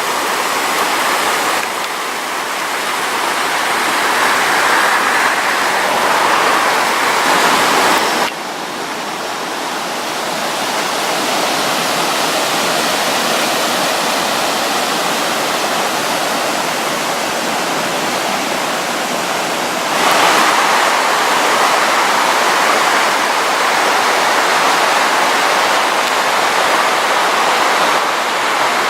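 Rushing stream water, a steady loud rush that shifts abruptly in tone and level a few times.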